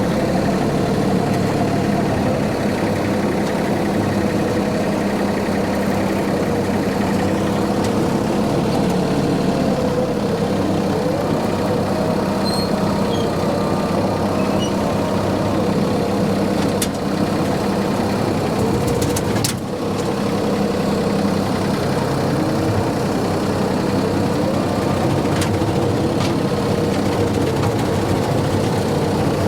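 Tractor engine running steadily while driving a brush hog rotary mower, with a couple of brief sharp clicks about two-thirds of the way in.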